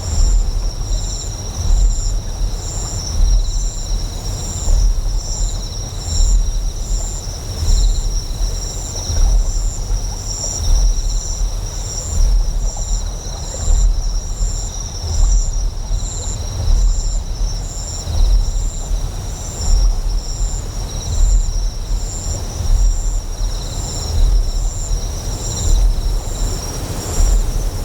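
A deep generator hum that swells in a slow even pulse about every second and a half, layered with high, continuous insect chirping and a hiss of flowing water.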